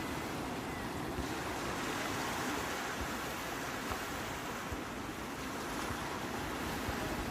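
Sea surf: waves breaking and washing on a shore as a steady, continuous rush with no single standout crash.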